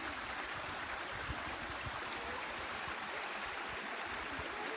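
Waterfall on the River Trevillet at St Nectan's Glen, a steady rush of falling water.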